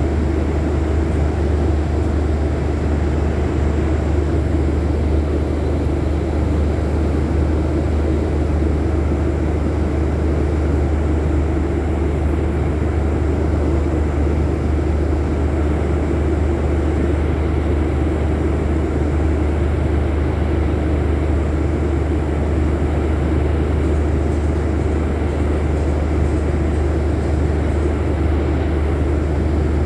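Scania city bus engine running steadily, a loud, unchanging low drone.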